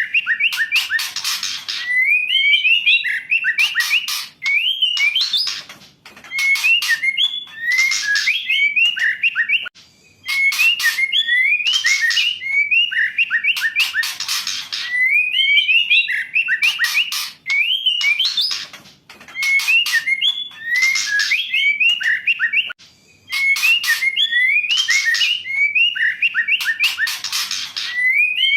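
Female white-rumped shama calling in repeated phrases every few seconds: a run of short whistled notes sliding up and down, then harsh rasping notes. This is the kind of female call played as a lure to coax a male shama into singing.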